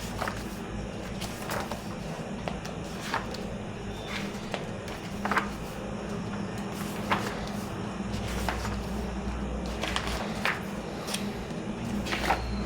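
Pages of a thick hardback book being turned one after another, each turn a short rustle about every one to two seconds, over a steady low hum.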